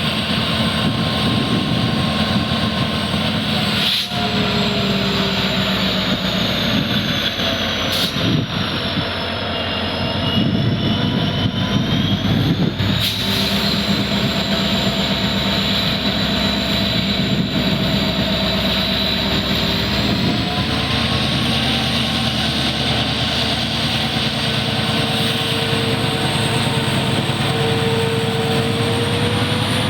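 Twin WDP-4D diesel-electric locomotives' EMD 16-cylinder two-stroke engines running under power with a loud, strong hum as the train pulls out. A high whine slowly shifts in pitch over it, and three sharp clicks come at about 4, 8 and 13 seconds in.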